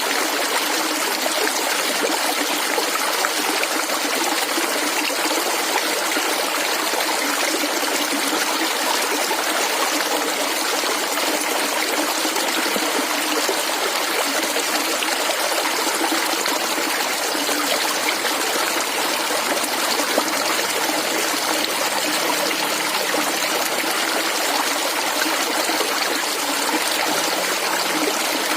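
Shallow stream of clear water gurgling and trickling steadily.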